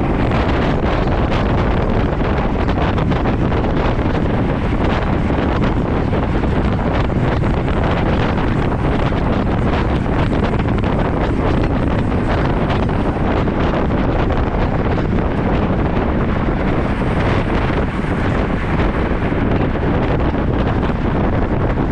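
Loud, steady wind noise buffeting the microphone while riding a road bicycle.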